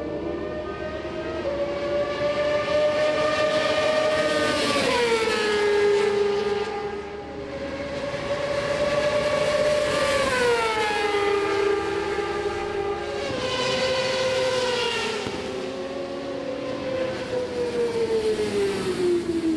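Superbike racing motorcycles running at high revs, their engine notes held steady and then dropping in pitch several times as bikes pass or brake.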